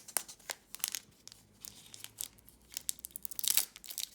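Foil booster-pack wrapper crinkling and tearing as a Pokémon card pack is ripped open, in a series of sharp crackles with the loudest rip about three and a half seconds in.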